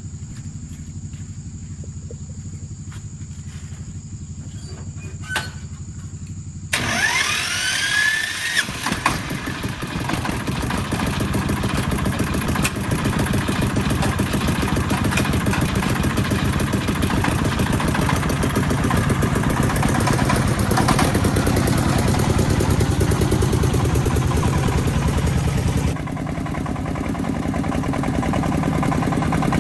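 A low steady hum with a few clicks, then about seven seconds in an engine starts with a rising whine and keeps running steadily, a little quieter near the end.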